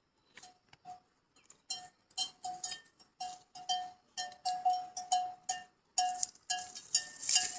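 A livestock bell clanking irregularly, the same ringing note struck over and over, the strikes coming faster toward the end.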